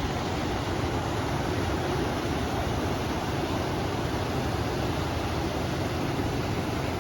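River water rushing steadily, mixed with wind, as an even, unbroken noise with a strong low rumble.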